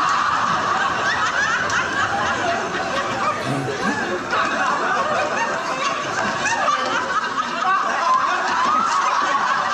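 Audience in a hall laughing and chuckling, many voices overlapping in a steady stream of laughter.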